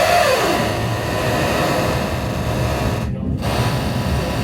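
Running noise of a Birmingham CAF Urbos 3 tram heard from inside the passenger car: a steady low rumble of wheels on rail under a loud hiss. A short falling squeal comes right at the start, and the hiss drops out briefly twice near the end. The riders call the ride too noisy.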